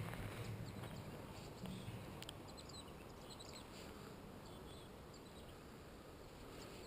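Quiet outdoor ambience: a low rumble in the first two seconds, then a few faint, high bird chirps about three seconds in.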